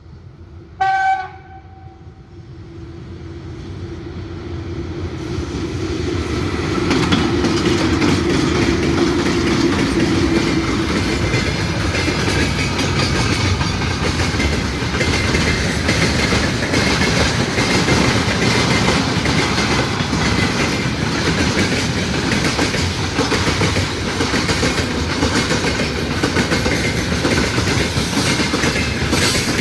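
A locomotive horn gives one short blast about a second in. Then a train approaches, growing louder over several seconds, and runs past with steady wheel clatter over the rail joints.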